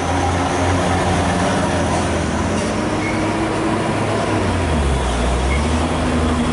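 Heavy truck's diesel engine running hard under load on a steep climb, a loud steady low drone whose note shifts lower about five seconds in.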